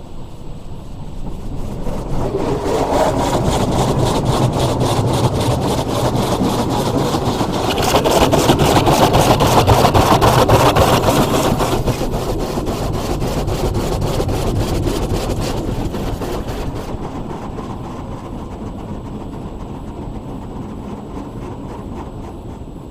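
Automatic car wash brushes scrubbing over the car, a dense rubbing and scraping that builds over the first few seconds, is loudest with added hiss about eight to twelve seconds in, then slowly fades.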